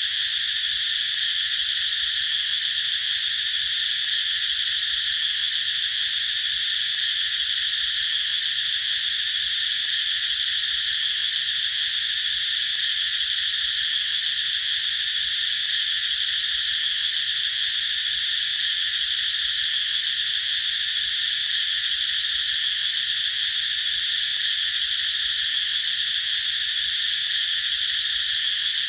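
Chorus of cicadas singing in one steady, unbroken, high-pitched buzz that neither rises nor falls.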